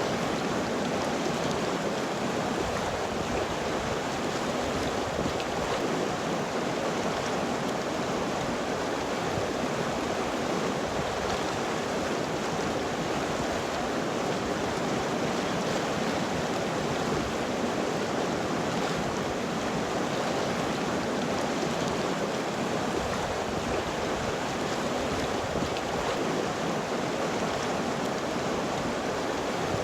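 River water flowing over rocks, a steady rushing with no breaks or changes.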